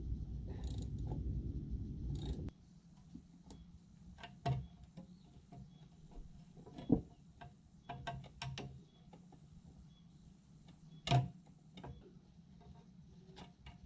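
Metal parts and hand tools being worked on a small cultivator's rotary shaft during oil seal removal: a low rumbling noise that stops abruptly about two and a half seconds in, then scattered clicks and knocks, a few of them louder.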